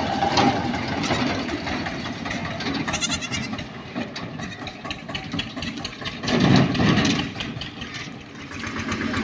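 Eicher 242 tractor's diesel engine running steadily, with a louder surge about six and a half seconds in.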